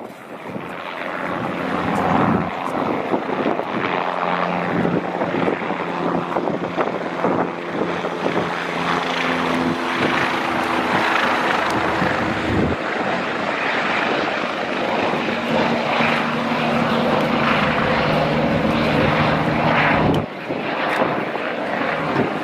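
An aircraft engine droning steadily under a rushing noise, its tone shifting a few times.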